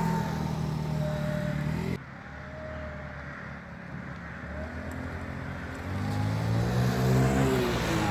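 Small 50cc Chinese scooter engine running on a test ride. It runs steadily, drops away abruptly about two seconds in, then comes back near the end, rising and falling in pitch as it is revved.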